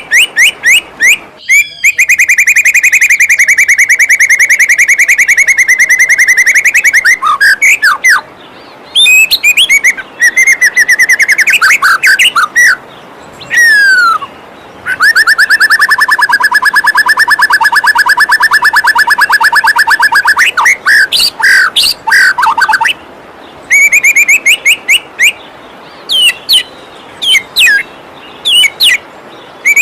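White-rumped shama song: long, very fast trills and rattles broken by quick sweeping whistles, over the steady rush of a flowing waterfall.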